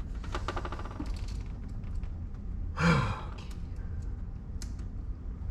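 A man's heavy sigh with a falling groan about three seconds in, after a brief run of rapid clicks near the start.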